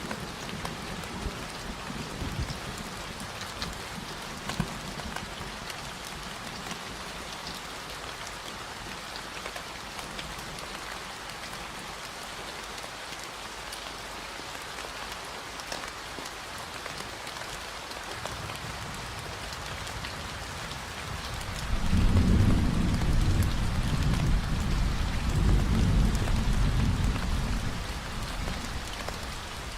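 Steady rain falling, with a long low rumble of thunder that swells about two-thirds of the way through and dies away near the end.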